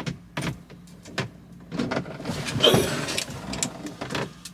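Handling noise: scattered clicks, knocks and a rustling scrape as items are moved and stuffed away by hand inside a truck cab, over a faint steady low hum.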